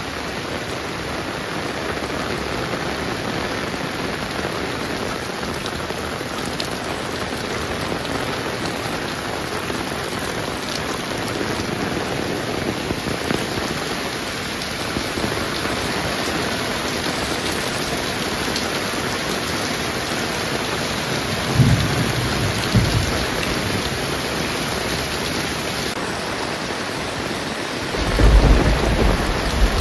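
Heavy rain falling steadily, with two low rumbles of thunder late on, the louder one near the end.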